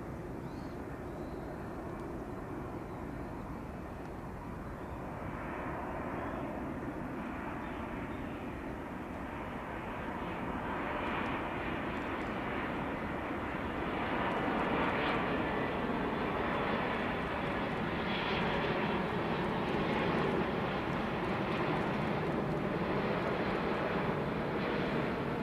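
United Airlines Boeing 777-200ER's jet engines: a steady, even rumble that grows gradually louder through the first half and then holds.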